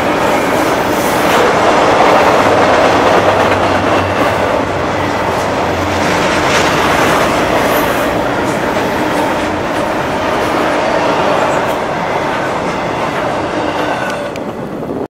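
Double-stack container train's well cars rolling past, a steady loud rumble of steel wheels on the rails. It eases off a little near the end as the last cars go by.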